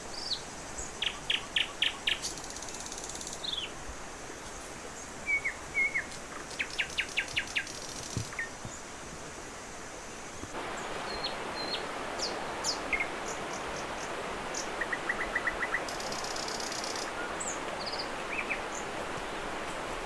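Wild birds singing and calling in woodland: quick runs of repeated short notes and scattered high chirps. They sound over a steady outdoor hiss that grows louder about halfway through.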